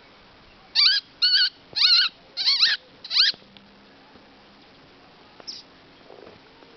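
A songbird giving five short nasal calls in quick succession, about half a second apart, each with a quick curl in pitch; one fainter call follows a couple of seconds later.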